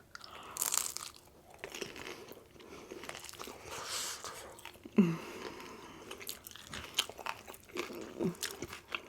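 Close-miked chewing and biting into crunchy rolled tacos, with irregular crisp crunches and clicks.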